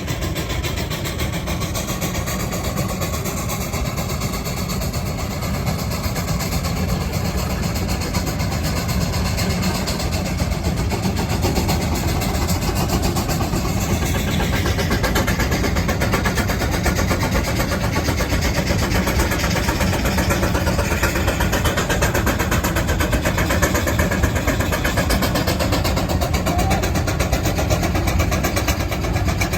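Steam traction engine working under load, pulling a plow: a steady, loud mechanical running that grows a little louder about halfway through.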